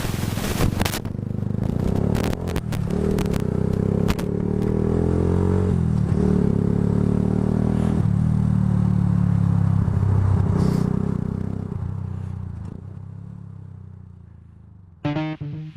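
Yamaha YZF-R125 motorcycle's single-cylinder engine, fitted with a Scorpion aftermarket exhaust, running steadily while riding. A few sharp knocks come in the first second, and the engine fades away over the last few seconds.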